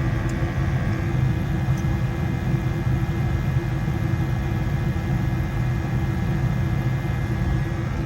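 Gas furnace running steadily after lighting: the burners firing with the inducer fan and blower motors giving a steady rumble and low hum.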